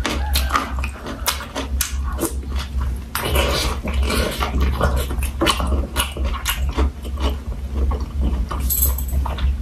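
Close-miked chewing of chewy boiled cow penis, with irregular wet mouth smacks, squelches and clicks, over a steady low hum.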